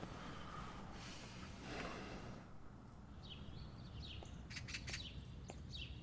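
Small birds chirping in short, quick falling calls that come in from about three seconds in, over a low steady background rumble.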